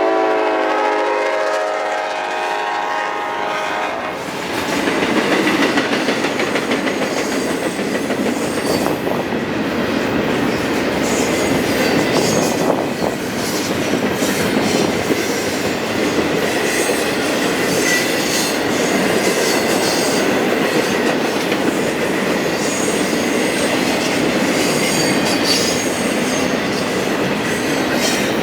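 Union Pacific freight locomotive's horn sounding for about the first four seconds, then cutting off. An intermodal freight train then rolls past, with steady wheel-and-rail noise and wheels clicking over the rail joints.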